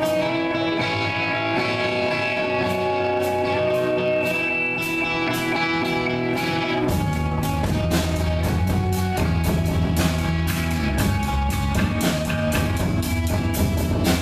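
Live rock band playing, led by electric guitar holding sustained notes over light percussive hits. About halfway through, a heavy low bass part and fuller drumming come in.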